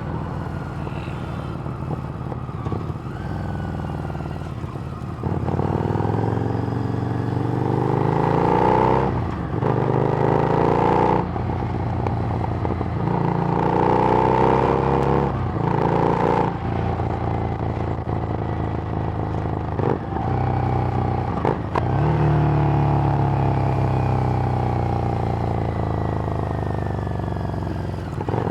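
Harley-Davidson Street Rod's 750 cc V-twin through a Screamin' Eagle exhaust, accelerating hard through the gears: the engine note climbs in pitch, drops briefly at each shift, then climbs again several times. Near the end it holds a steadier pitch before revving up once more.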